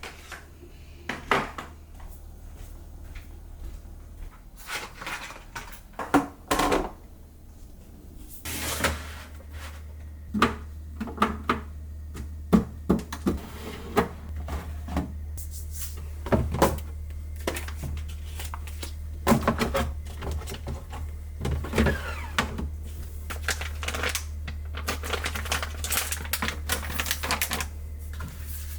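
Irregular knocks and clicks of containers, baskets and trays being handled and set down while a refrigerator is organised. A steady low hum runs underneath and gets stronger about eight seconds in.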